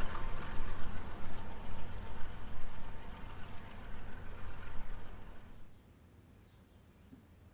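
Freight train rolling past, a steady rumble of wheels on rail with a high chirp repeating about four times a second, cutting off suddenly near the end to near quiet.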